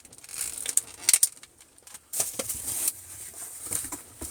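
Eating noises from someone working through a pizza: irregular chewing and handling, with small sharp clicks and hissy stretches that stop briefly around the middle.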